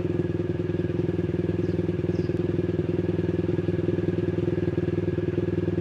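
Great Wall Florid's engine idling smoothly and evenly after its fuel injectors were cleaned, a sign that the P0300 misfire and unstable idle are cured.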